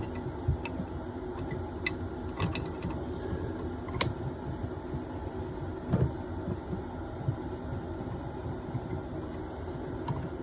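Small metal hand tools clicking and knocking against a copper pipe and its compression fitting, a few sharp clicks one to two seconds apart, over a steady low hum.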